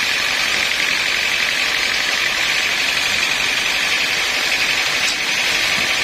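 Sawmill machinery running at a steady, even pace: a constant high-pitched whine over a hiss, with no starts or stops.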